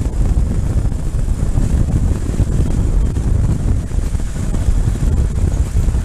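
Wind buffeting the microphone on a moving motorcycle, a dense steady low rumble mixed with engine and road noise.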